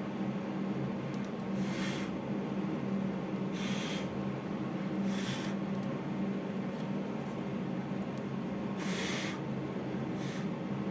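A person blowing short puffs of breath over the ash in a fireplace firebox to test the chimney draft: about five puffs, one to two seconds apart, over a steady low hum.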